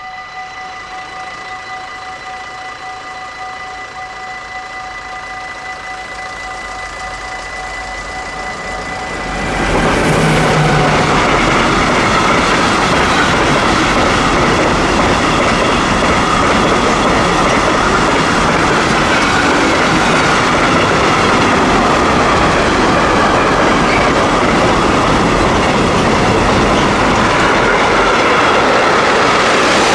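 Dutch level-crossing warning bell ringing steadily while a train approaches with a growing rumble. About nine or ten seconds in, the train reaches the crossing and runs past close by for the rest of the time: a loud rumble with wheels clattering over the rail joints, drowning out the bell.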